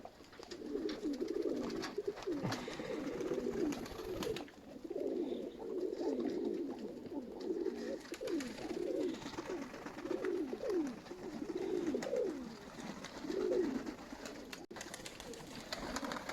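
Domestic Nikolaev pigeons cooing, a steady run of low coos that glide up and down one after another.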